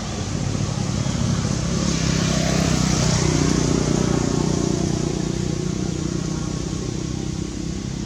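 A motor engine running steadily, growing louder in the middle and easing off again, like a vehicle passing by.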